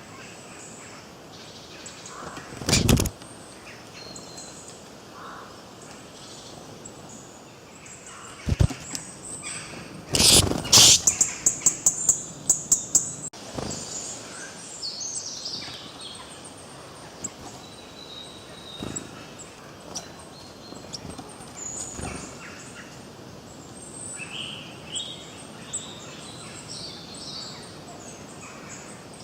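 Forest birds chirping and singing over a steady outdoor background. A few loud, sudden sounds cut through, the loudest a rapid run of about eight strokes a little past ten seconds in.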